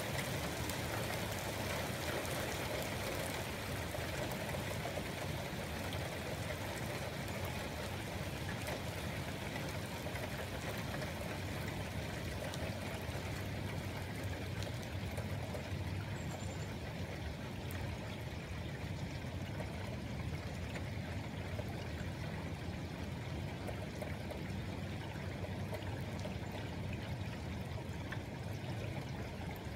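Steady rain and running water, an even wash of noise with no thunder.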